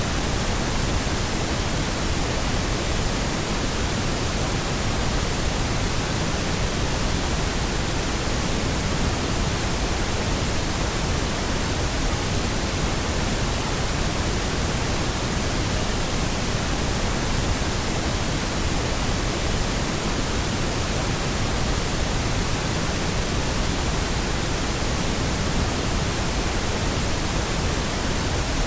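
Steady, unchanging pink noise from a noise generator: an even hiss across the whole range with no events or variation.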